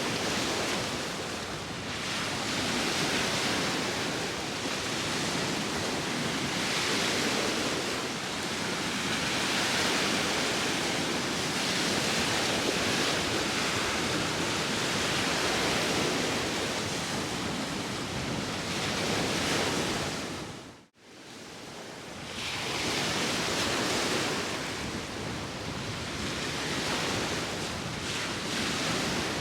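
Sea waves washing ashore with wind, a steady rush that swells and eases every few seconds. About two-thirds of the way through, the sound cuts out for a moment and fades back in.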